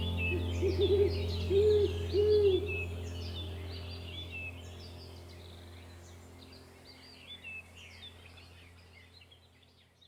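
An owl hooting three times in the first few seconds, each hoot a short arched note, over small birds chirping. A steady low hum runs underneath, and the whole sound fades out toward the end.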